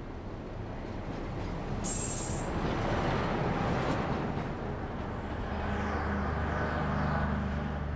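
Train running past, a steady rumble that swells from about a second in, with a brief high squeal around two seconds. A low, steady engine drone runs through the last few seconds.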